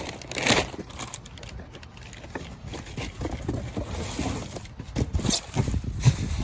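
Wind buffeting the microphone in a low, uneven rumble, with a few short knocks and rustles of trash being handled.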